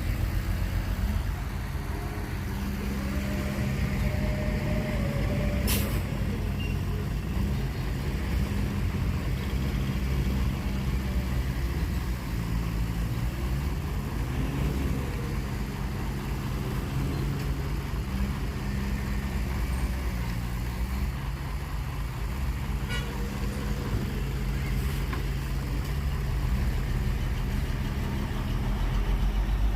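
Heavy diesel engine of earthmoving machinery running steadily, its pitch shifting slightly as it works, with a sharp click about six seconds in.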